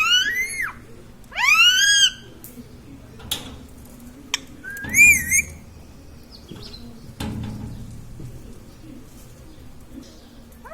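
Indian ringneck parrot calling: three high, arching whistle-like calls in the first half, with a couple of sharp clicks between them.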